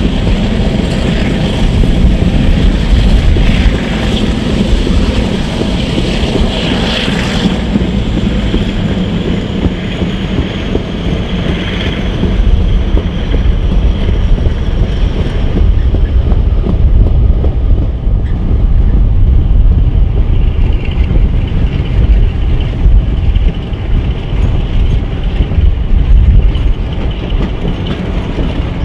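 Passenger coaches of a train hauled by Class 42 'Warship' diesel-hydraulic D821, heard from an open carriage window: wheels rumbling over the rails with a clickety-clack at the rail joints, and a rush of wind. A faint high whine falls slowly in pitch over the first half.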